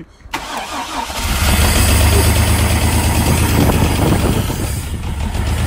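Chevy S10 pickup engine catching again about a second in after stalling, then running steadily at idle.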